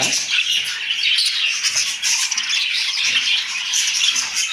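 Pet parrot chattering and squawking, a continuous run of shrill, broken calls.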